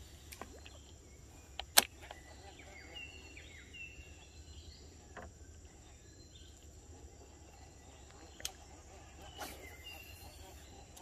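Outdoor ambience: a steady high-pitched drone of insects under a low rumble, with short bird chirps twice and a few sharp clicks.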